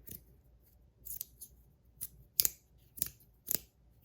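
Carbon fiber magnetic slider fidget being slid back and forth, snapping with a sharp click at each stroke, about one click every half second.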